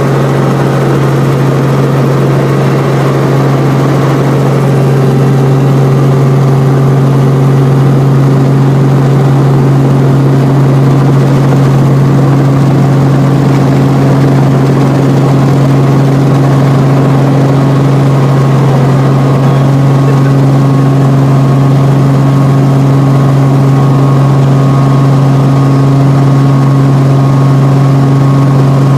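Helicopter cabin noise during flight: a loud, steady low drone from the engine and rotors, with fainter steady higher tones above it.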